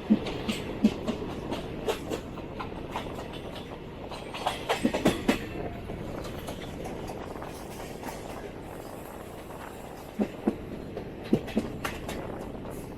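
Passenger train coach wheels running over the track, a steady rumble with clusters of sharp clacks as the wheels cross rail joints and points: one group about five seconds in and another a little after ten seconds.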